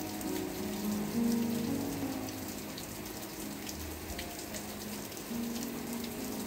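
Steady rain falling, with many small drops ticking sharply through an even hiss. Soft held music notes sound underneath, changing pitch every second or so.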